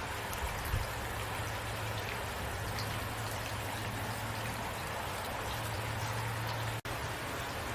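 Steady rain falling, with scattered individual drops ticking over an even hiss and a low steady hum beneath. The sound cuts out for an instant about seven seconds in.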